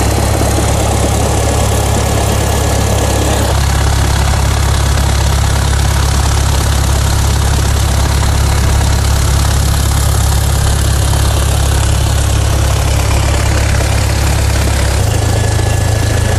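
Cessna 172's piston engine and propeller running steadily and loudly, with most of the sound low down. The sound changes about three and a half seconds in and again near the end.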